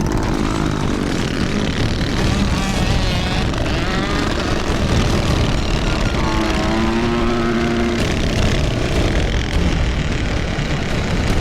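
Minibike engines running and revving hard as the bikes race, a loud, steady engine drone throughout.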